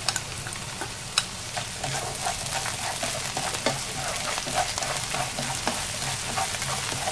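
Dried shrimp frying in hot oil with minced shallot and garlic, sizzling steadily, while a wooden utensil stirs them around the frying pan with frequent light clicks and one sharper click about a second in.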